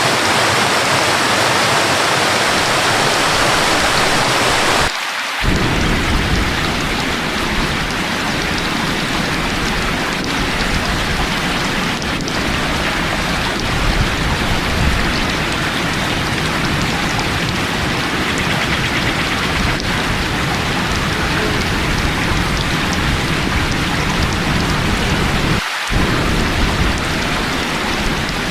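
Steady rushing waterfall that cuts abruptly about five seconds in to heavy, continuous rain with a deep low rumble underneath. The rain track breaks off for a split second near the end, then carries on.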